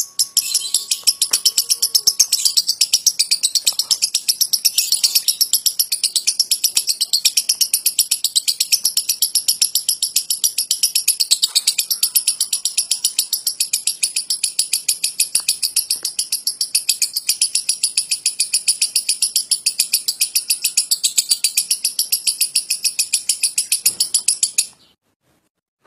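Lovebird's long 'ngekek': a rapid, even, high-pitched chattering trill of about five notes a second, kept up without a break and cutting off sharply near the end.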